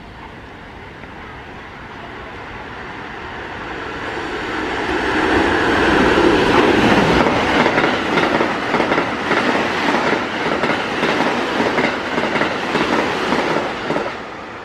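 An electric train on the JR Kyoto Line comes into the station, growing louder over the first five seconds. Its wheels then clatter over the rail joints in a quick run of clacks, and the sound drops away abruptly near the end.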